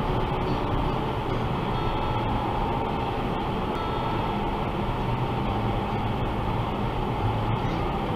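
Steady road and engine noise inside a vehicle cruising at highway speed, with a low hum and a faint steady whine.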